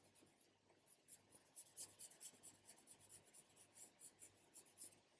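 Graphite pencil shading on paper: faint, quick scratchy strokes, several a second, starting about a second in and stopping near the end, as tone is built up on a drawing.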